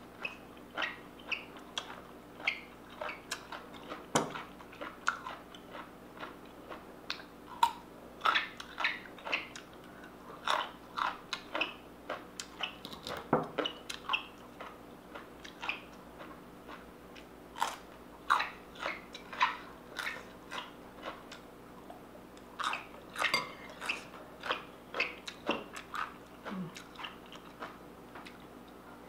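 Close chewing and crunching of chicken gizzard salad with raw cabbage, cucumber and carrot, with occasional clicks of a metal fork against a ceramic plate. The crunches come irregularly, a few each second.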